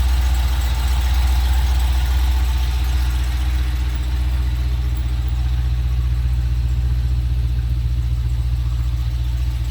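Dodge Challenger Scat Pack's 392 Hemi V8 (6.4-litre) idling steadily after a cold start, getting slightly quieter over the first few seconds, then holding a smooth, even idle.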